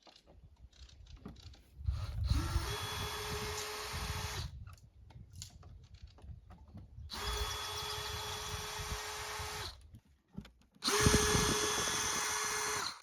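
Power drill running in three bursts of about two seconds each, spinning up to a steady whine, with quieter handling sounds between the bursts. It is used to refit the lock on a wooden shed door.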